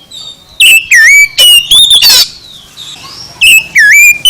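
Oriental magpie-robin singing loud, rich whistled phrases of sliding notes that rise and fall. It sings two bursts, the first starting just under a second in and the second about three and a half seconds in.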